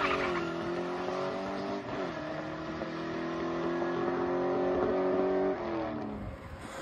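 1957 Chevrolet's carbureted engine at wide-open throttle on a drag-strip pass, its pitch climbing and then dropping sharply at a gear change about two seconds in. It climbs again until about five and a half seconds in, then its pitch drops and the sound fades as the car pulls away down the track.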